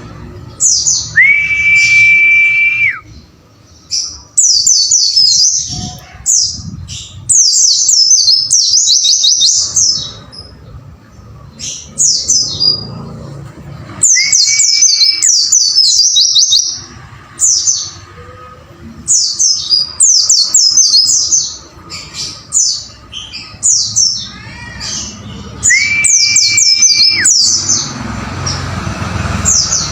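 White-eye (pleci) songbird singing rapid, high-pitched chirping phrases, the 'wucit wucit' song, over and over. A long, level whistle sounds three times among them: near the start, about halfway through and near the end.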